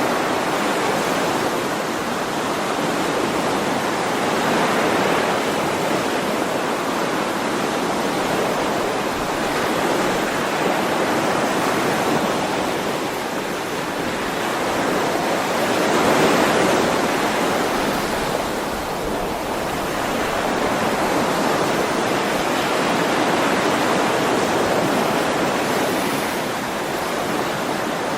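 Ocean surf: a continuous rushing wash of waves that swells and eases every several seconds, loudest about halfway through.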